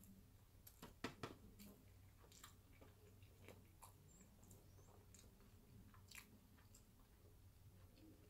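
Faint close-up chewing of a mouthful of sushi roll, with small wet mouth clicks scattered through and a couple of sharper clicks about a second in.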